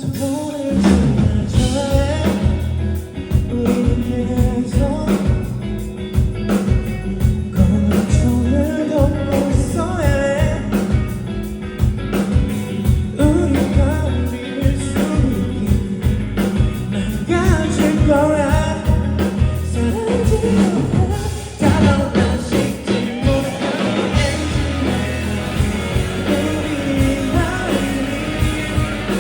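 Rock band playing live with a singer: vocals over drums and guitar.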